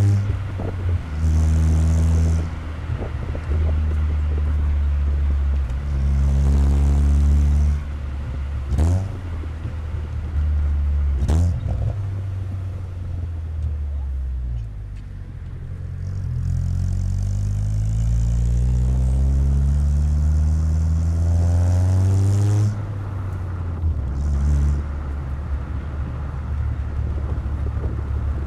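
Chevrolet Corsa Wind 1.0 MPFI four-cylinder exhaust through a JK sport muffler, heard close at the tailpipe while the car is driven. The revs climb and drop back several times through gear changes. About halfway there is a quieter spell, followed by a long, steady climb before dropping back again.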